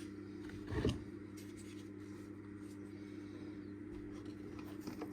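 Dishwasher parts being handled during reassembly: one knock about a second in and a few light clicks near the end, over a steady low hum.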